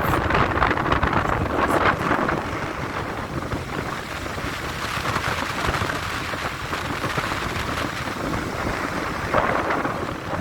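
Stormy sea surf mixed with wind buffeting the microphone. It is loudest in the first two seconds or so, then settles to a steadier rush.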